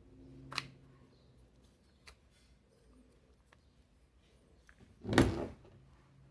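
Metal parts of an electric fan motor being handled during reassembly: a sharp click about half a second in, a few light ticks, then a louder short clunk about five seconds in.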